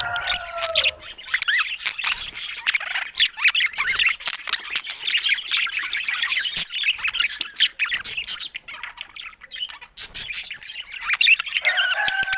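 Budgerigars chattering: a dense, fast run of chirps, warbles and clicks. A longer, falling squawk-like call sounds at the start and again near the end.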